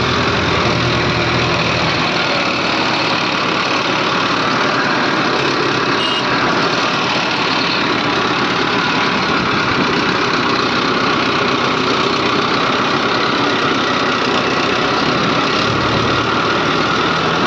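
Diesel engines of a backhoe loader and tractor running steadily while soil is loaded. There is a deeper low rumble at the start and again briefly near the end.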